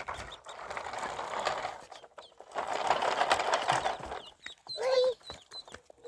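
A fast, dense rattling noise in two long stretches, then a few short pitched calls from poultry near the end.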